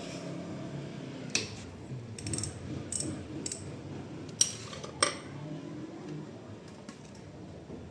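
A handful of sharp metallic clicks and clinks from a ratchet and 17 mm socket being fitted and worked, spread over about four seconds, as the motorcycle's oil drain plug is loosened.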